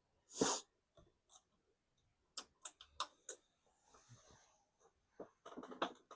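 Scattered small clicks and taps of handling at a workbench, with one short, louder puff of noise about half a second in and a quick cluster of clicks near the end.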